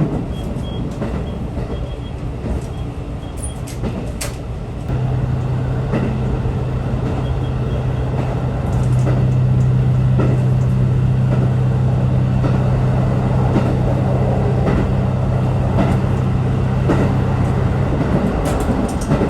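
Train running, with a steady low drone that starts about five seconds in, gets louder around nine seconds and stops shortly before the end, over a constant rumble with a few light clicks.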